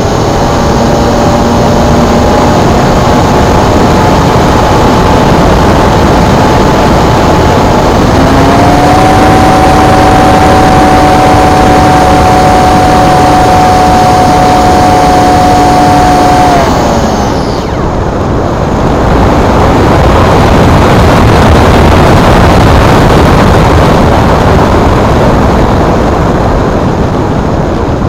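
Electric motor and propeller of a Multiplex Blizzard RC glider whining at a steady pitch under a loud, even rush of noise. The whine shifts pitch about a third of the way in, then drops away and stops a little past halfway, leaving only the rushing noise.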